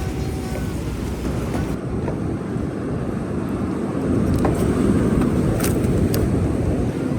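Wind buffeting the microphone: a steady low rumble that swells a little past the middle, with a few faint clicks.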